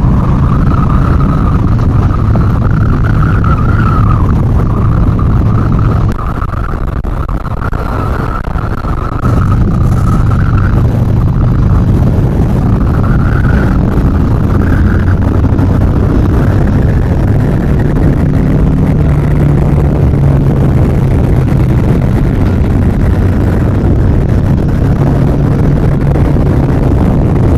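Yamaha XV950R's air-cooled V-twin engine running at road speed, with wind noise on the microphone. The engine eases off about six seconds in, then picks up again about three seconds later and runs on steadily.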